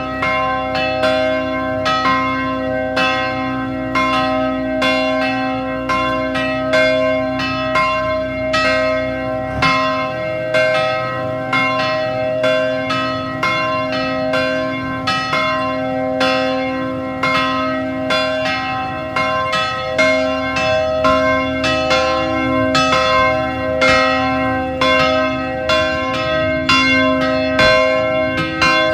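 A set of bells (a carillon) mounted on a Scania is ringing continuously, several pitched bells struck about two to three times a second in overlapping peals. A low rumble underneath stops about ten seconds in.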